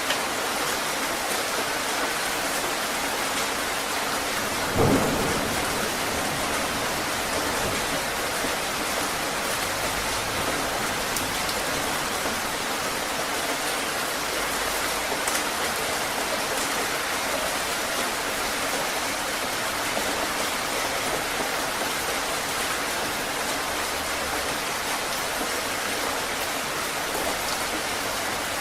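Heavy rain falling steadily, with a short low thump about five seconds in.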